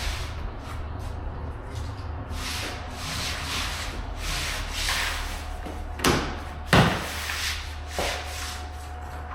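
Flooring underlayment sheet rubbing and scraping over a concrete floor as it is pushed against the wall and tucked under the baseboard. Two sharp knocks come about two-thirds of the way through, with a lighter one just after.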